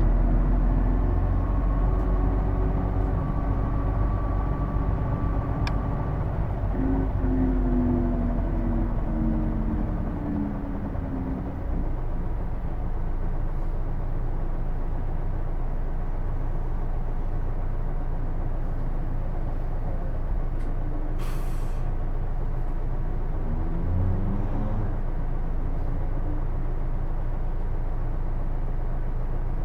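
Inside a Hino Blue Ribbon II city bus pulling away and running on: the engine drones under a whine from the drivetrain that climbs in pitch in steps as the bus gathers speed, then settles into steady cruising. This distinctive whine makes the gearbox sound almost like an automatic and marks this bus as an odd-noise unit. A short air hiss comes about two-thirds of the way through, and the whine rises again near the end.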